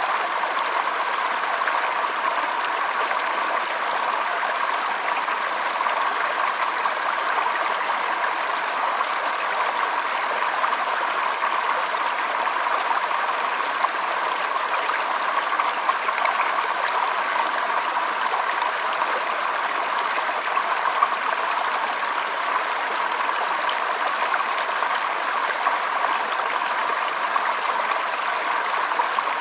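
Shallow stream trickling and burbling over stones, a steady water sound with fine splashy flicker.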